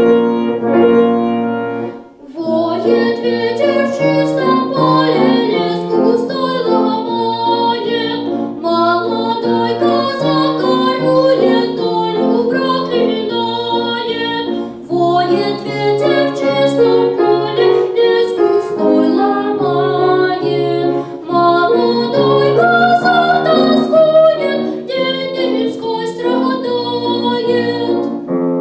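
Solo instrumental music: a keyboard instrument plays a short piece, note after note with chords underneath, after a brief pause about two seconds in.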